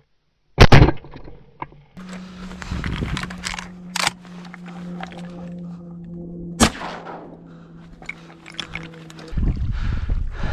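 Shotgun firing: a very loud report about half a second in and a second one about six and a half seconds in, with a smaller sharp crack between them. A steady low hum runs under the middle, and wind buffets the microphone near the end.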